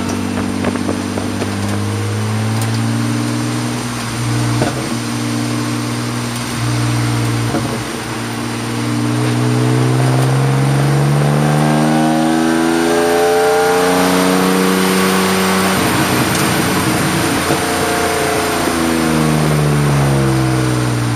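Race car engine heard from inside the cabin, running hard on track. Its pitch holds fairly steady at first, then climbs for several seconds as it accelerates, drops away, and rises again near the end.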